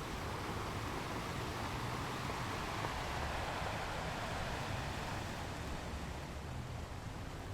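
Ocean waves breaking on rocks, a continuous wash of surf that swells about two to four seconds in and then eases off.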